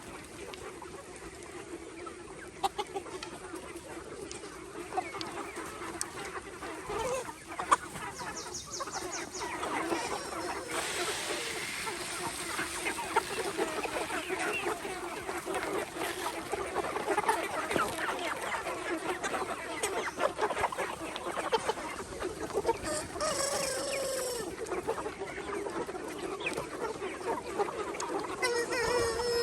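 A flock of egg-laying chickens clucking and calling without pause, the chatter growing busier after the first third, with a few louder, higher calls standing out around the middle and near the end.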